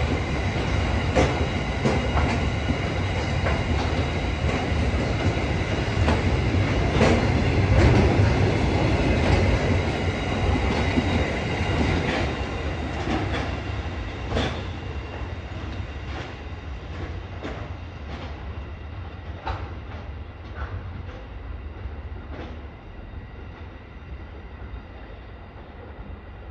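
Empty container flat wagons of a freight train rolling past, a steady rumble with wheels clicking over rail joints. The sound fades gradually over the second half as the end of the train draws away, the clicks growing fainter and sparser.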